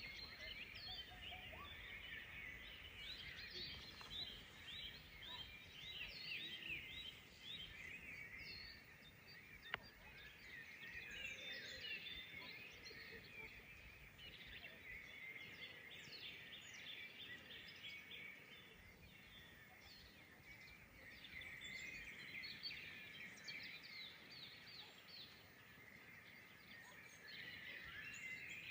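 Faint chorus of many small birds singing and chirping without a break, with a single sharp click about a third of the way in.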